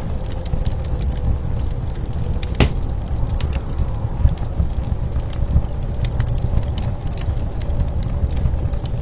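Wood fire crackling with scattered sharp pops, one louder pop a little over two and a half seconds in, over a steady low rumble of blizzard wind.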